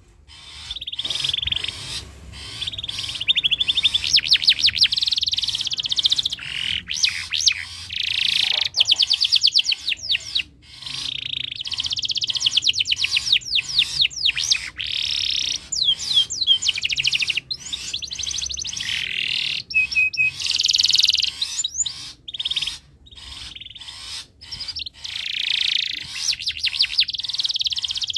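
Domestic canary singing almost without pause: long phrases of fast, rolling trills and rapid repeated chirps, with brief breaks between phrases. It is a male in breeding condition, in full song.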